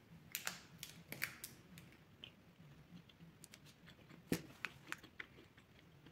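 Faint, close-up biting and chewing of a firm, dark-chocolate-coated vegan bar: scattered small clicks and mouth smacks, with one sharper knock about four seconds in.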